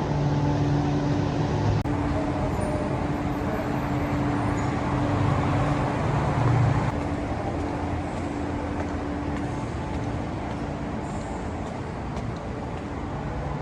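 Steady running noise of a moving vehicle: a continuous rumble with a constant low hum, easing off slightly toward the end.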